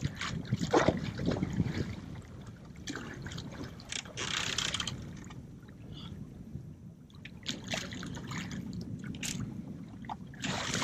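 Water splashing and sloshing against the side of a boat as a tarpon is held by its jaw at the gunwale, in several short bursts of splashing with quieter lapping between.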